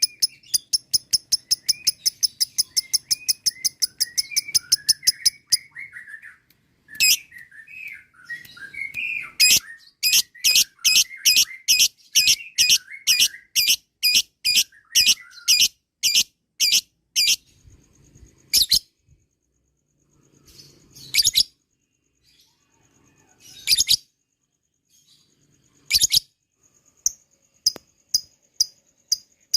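Lovebird 'ngekek' chatter: runs of sharp, high-pitched chips fired rapidly and evenly, broken by short pauses, with softer twittering beneath.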